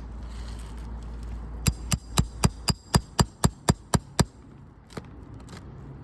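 Light, quick tapping on an old, brittle three-tab asphalt shingle, about eleven taps at roughly four a second, then one more a little later. The tapping tests the weathered shingle, shaking loose granules to show how brittle it is.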